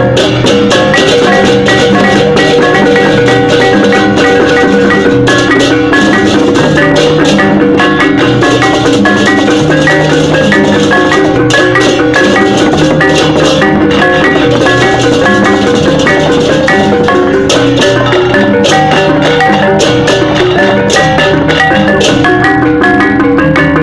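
Balinese gamelan music: fast interlocking tuned metal percussion with drums over a sustained ringing gong tone.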